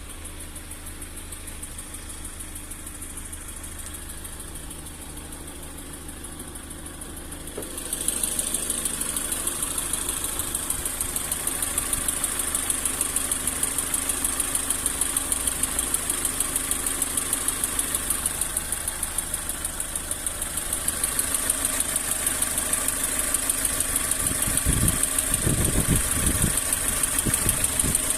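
Lada Granta's four-cylinder petrol engine idling with a fast, even metallic ticking, which gets louder about eight seconds in. The owner traces the ticking by stethoscope mainly to cylinder two, and a little to cylinder four, near the spark plugs; it appears on a warm engine and does not change when plugs are disconnected.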